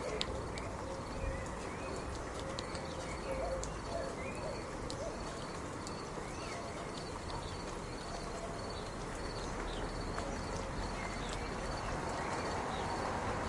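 Steady rain hiss with scattered sharp drop clicks, and faint bird calls over it.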